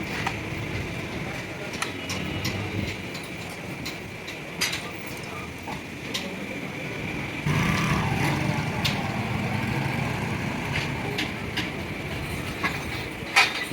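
Workshop sounds: scattered sharp metal clicks and knocks over a steady mechanical hum, which grows louder about halfway through.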